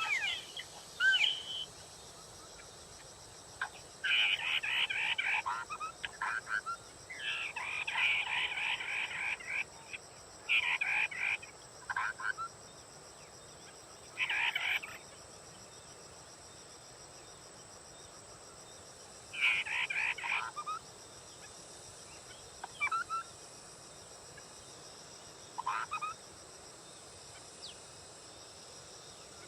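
A họa mi đất, a Vietnamese ground-dwelling songbird, singing rich warbled phrases of about a second each, with irregular pauses between them. Later in the stretch there are a few short single notes, over a faint steady high whine.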